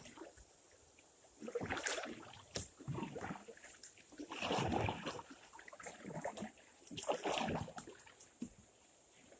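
Kayak paddle strokes dipping and splashing in river water, four uneven surges of splashing with quieter gaps between.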